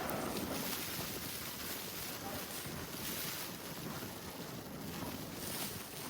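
Blizzard wind buffeting the microphone: a steady rushing hiss that swells now and then in gusts.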